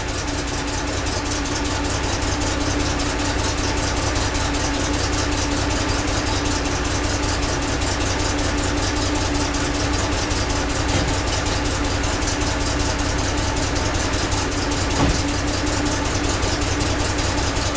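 GAZ Volga's ZMZ-402 four-cylinder petrol engine idling steadily, with the burnt-through exhaust downpipe now replaced. A single brief click about 15 seconds in.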